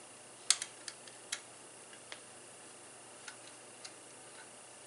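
A handful of sharp, light clicks and taps, the loudest about half a second in, from small parts being handled as the mesh cover is taken off an RC truck's radio box.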